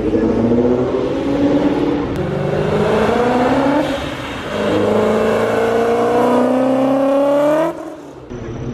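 A car engine accelerating, its pitch climbing. It eases off briefly about four seconds in, then climbs steadily again before cutting off abruptly near the end.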